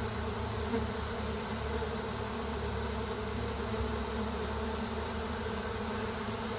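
A honey bee swarm in flight: thousands of bees leaving the hive and filling the air, their wings making a steady, continuous buzz.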